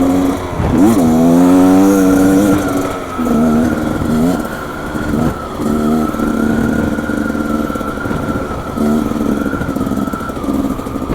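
Beta XTrainer 300 two-stroke dirt bike engine running under a riding load. The revs dip and climb again about a second in, then hold fairly steady with short on-and-off throttle changes, with a steady high whine over it.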